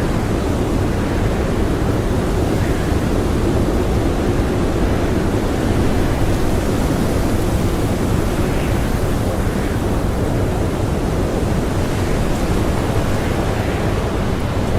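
Strong blizzard wind blowing loose powder snow, a loud, steady rushing with gentle swells.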